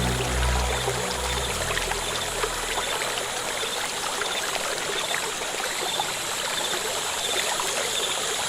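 Low sustained music notes fade out in the first couple of seconds, leaving a steady rush of flowing stream water.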